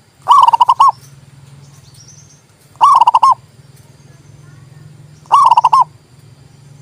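Zebra dove (perkutut) cooing: three short, quick, pulsed phrases, evenly spaced about two and a half seconds apart.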